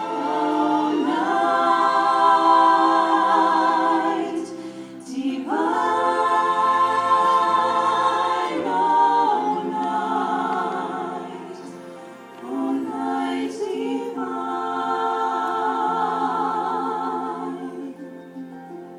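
A choir singing in several parts with vibrato, in four long phrases with short breaks between them.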